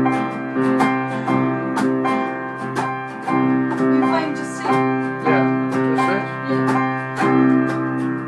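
Guitar and keyboard playing held chords with a regular strummed beat.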